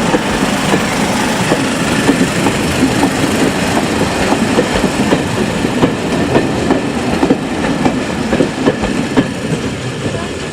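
Train running along the track, its wheels clicking rapidly and unevenly over rail joints against a steady rumble. The sound eases slightly near the end.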